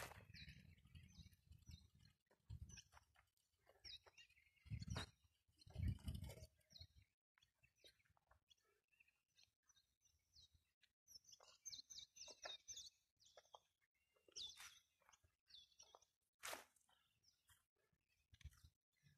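Near silence with faint, scattered bird chirps, a quick cluster of them about halfway through. A few low thumps in the first several seconds, the loudest about six seconds in.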